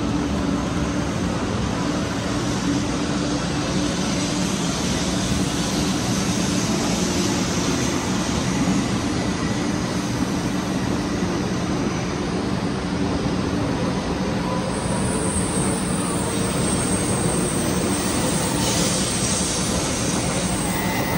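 Shinkansen bullet train running along a station platform: a steady rushing noise with a low, even hum underneath. A faint high whine joins about two-thirds of the way through.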